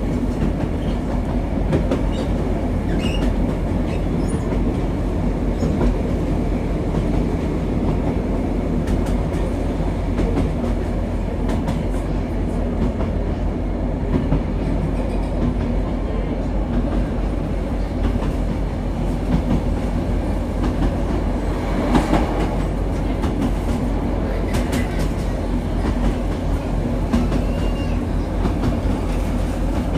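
Diesel passenger train running along the line, heard from inside the carriage: a steady rumble of engine and wheels with scattered rail clicks and a brief louder clatter about two-thirds of the way through.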